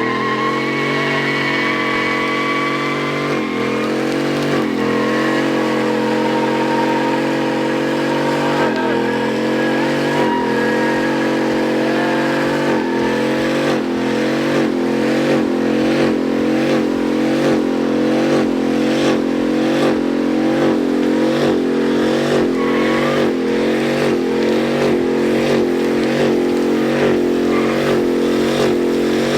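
Truck engine held at high revs during a burnout, its pitch climbing at the start and then wavering; from about halfway on it pulses in a steady rhythm of roughly one surge a second.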